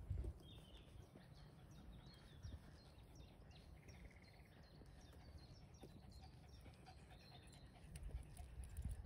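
Faint birdsong: many short, high chirps and twitters from small songbirds, with a few low thumps at the start and again near the end.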